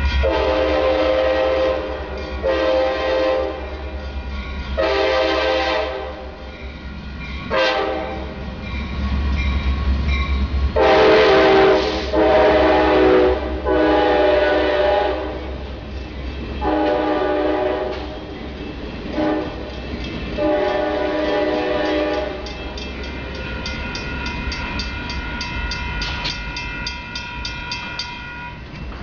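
Diesel locomotive air horn sounding a string of long and short chord blasts, about nine in all, over the low rumble of the engine as the train runs along a city street. In the last few seconds a steady ringing with rapid ticks takes over.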